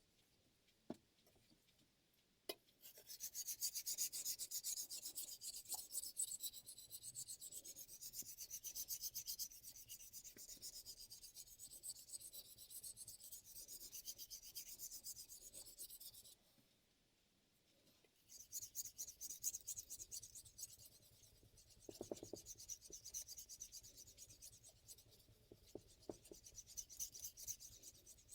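Damascus chef knife blade being stroked rapidly back and forth on a Shapton M15 5000-grit ceramic whetstone: a fast, fine scraping hiss that stops for about two seconds midway, then resumes. A couple of small clicks come before the strokes begin.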